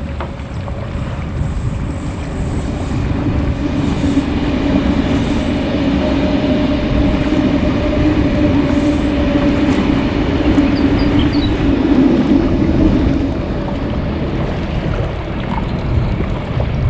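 Jet ski engine running under way: a steady drone over the rush of water and wind. It grows louder about two seconds in and eases off near the end.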